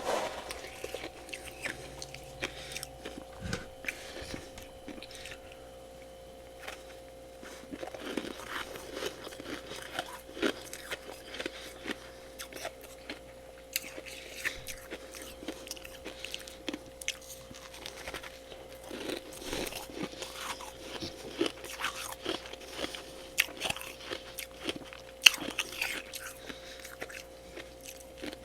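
Close-up chewing and crunching of freezer frost: many irregular crisp bites and crunches, with a quieter stretch a few seconds in, over a steady faint background hum.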